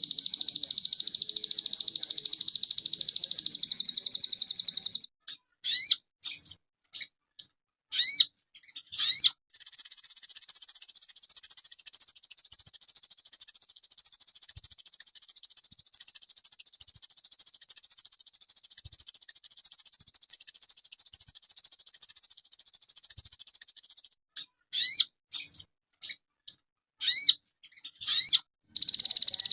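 Sogon (spiderhunter) song: long stretches of a rapid, high, continuous trill, broken twice by a series of separate sharp upward-sweeping chirps with short silences between them.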